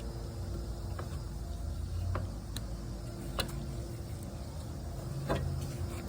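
A few sharp, irregularly spaced clicks of hand tools and a socket being handled while the oil pressure sensor is worked on, over a steady low rumble.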